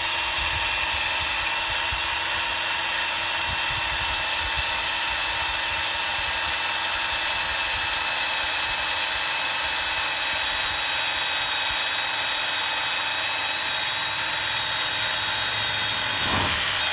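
Cordless DeWalt drill running continuously with a buffing wheel pressed against a motorcycle wheel rim, polishing corrosion off: a steady motor whine over an even polishing hiss.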